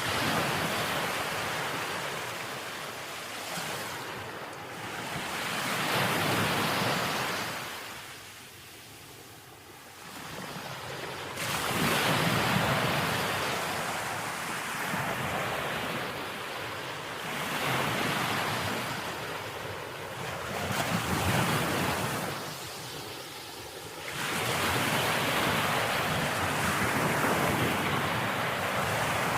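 Ocean waves washing in, a steady rush of surf that swells and fades every few seconds.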